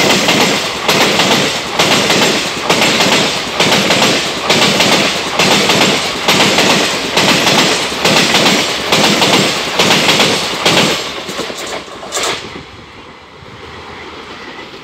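Passenger train coaches rushing past at speed, their wheels clattering in a steady rhythm over the rail joints. The clatter fades about eleven seconds in as the last coach passes and the train draws away.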